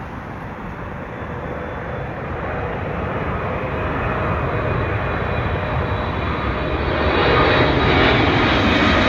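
Boeing 777-300ER's twin GE90-115B turbofan engines coming in to land: a rushing jet noise with faint steady whining tones, growing steadily louder as the aircraft nears.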